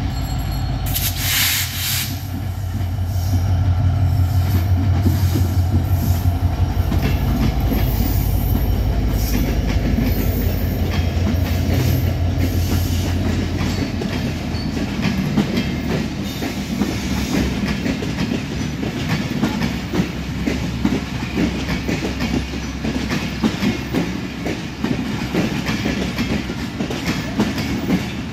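Diesel locomotive's engine droning as it hauls a passenger train past, fading about halfway through, after which the LHB coaches' wheels clatter rhythmically over the rail joints. A brief loud burst of noise comes a second or two in.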